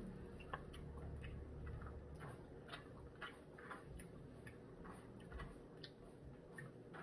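Faint chewing of fried rice: soft, irregular mouth clicks, roughly two a second.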